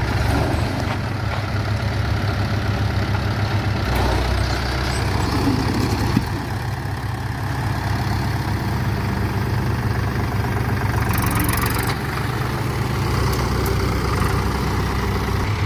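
Diesel engines of two 47 hp farm tractors, a Mahindra 575 DI and a Powertrac Euro 45 Plus 4WD, running steadily at low engine speed.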